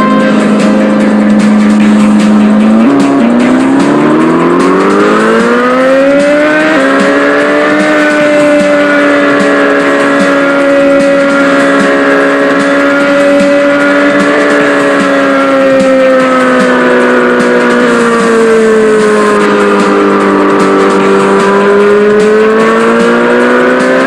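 Small motorbike engine running steadily. About three seconds in its pitch rises as it revs up, then holds, sags a little about eighteen seconds in, and climbs again near the end.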